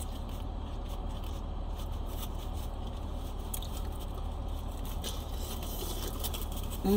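Biting into and chewing a soft, consommé-dipped birria taco, with faint wet mouth noises over a steady low hum. Near the end comes a brief falling vocal sound.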